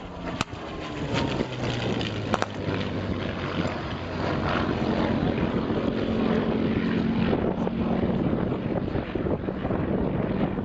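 Piston-engined World War II fighters, a Spitfire and a Messerschmitt Bf 109, flying a display pass overhead: a propeller engine drone that grows louder about four seconds in.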